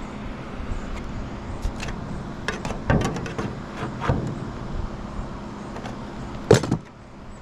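Scattered knocks and taps from roofing work over a steady mechanical hum. The loudest knock comes about six and a half seconds in.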